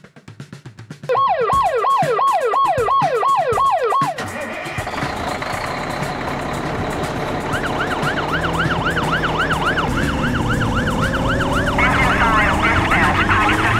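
Electronic toy fire-truck siren. A fast falling yelp repeats about three times a second for about three seconds, then stops. After a stretch of rumbling noise, a quicker rising-and-falling warble starts, and a second siren joins near the end.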